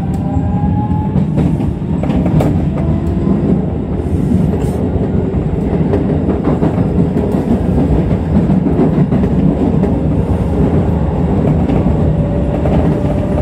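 Keisei Electric Railway train running, heard from the driver's cab: a steady rumble of wheels on rail with a few sharp rail-joint clacks. In the first second or so a traction-motor whine rises in pitch as the train picks up speed after leaving the station.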